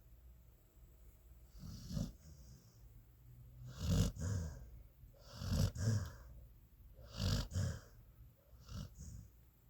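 Pet dog snoring in its sleep: five snores about a second and a half apart, the middle three the loudest.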